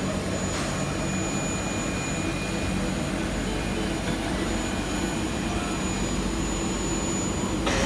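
Jet airliner engines running on the ground: a steady rumble with a thin, high, constant whine over it.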